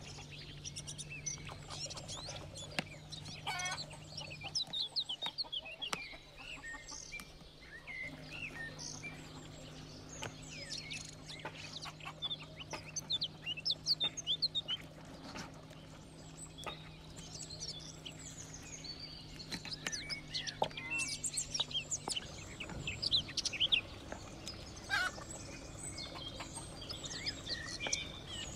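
Farmyard birds: hens clucking and small birds chirping on and off, over a steady low hum.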